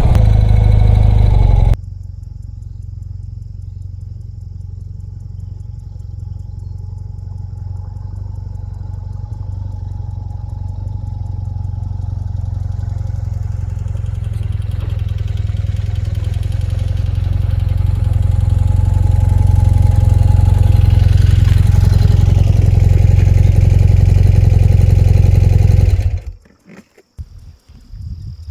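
BMW R100RS air-cooled flat-twin motorcycle engine running at low revs on a dirt track. It drops sharply in level about two seconds in, then grows steadily louder and cuts off suddenly near the end, leaving faint insect sounds.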